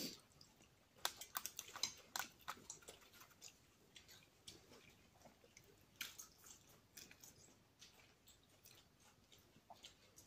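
Faint mouth clicks and smacks of a person chewing food with the mouth closed, then sipping and swallowing from a glass in the second half.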